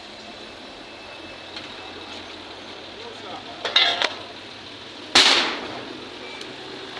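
Steady outdoor background noise, a short pitched squeal or cry just before the middle, and then a single loud sudden bang about five seconds in that dies away over half a second.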